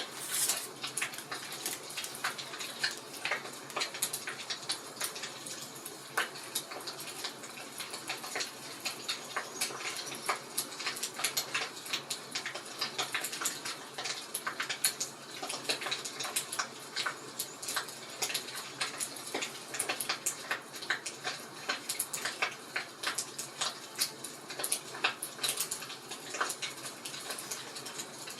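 Fireplace crackling: many irregular small pops and snaps over a soft steady hiss.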